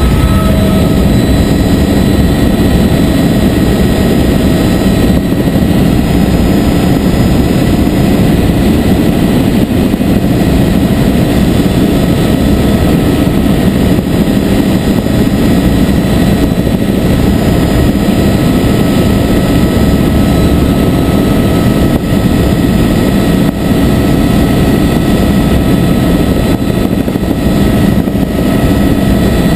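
Helicopter running steadily in flight: a loud, even drone of rotor and engine with a steady high whine over it.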